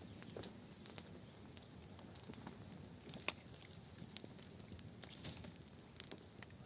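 Campfire of wood crackling faintly, with scattered pops and one sharper, louder snap about three seconds in.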